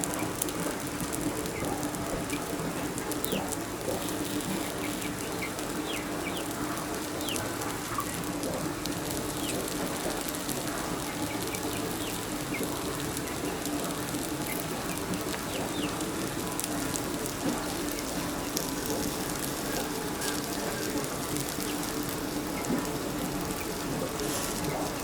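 Samosas frying in a little oil on a hot tawa, a steady sizzle with fine crackles, while birds chirp in short high calls throughout.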